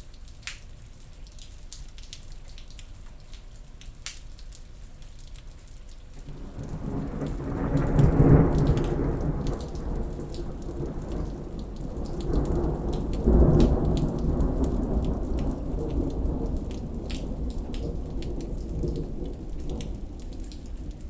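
Steady rain with scattered drop hits; about six seconds in, a long roll of thunder builds, peaks twice, and rumbles slowly away under the rain.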